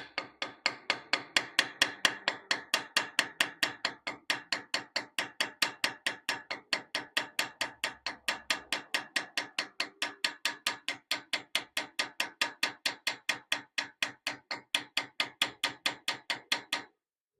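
Hammer tapping metal in a steady, fast run of about four light strikes a second, each with a short metallic ring, stopping abruptly near the end: copper being hammered into the inlay grooves of a wrought iron cross-guard.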